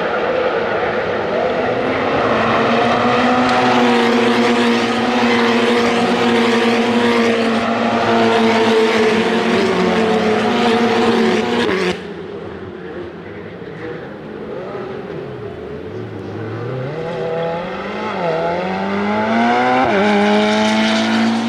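Ferrari Challenge race cars under power, the engine holding a steady high note. About twelve seconds in the sound cuts abruptly to a quieter car whose engine pitch dips and then climbs in steps through gear changes.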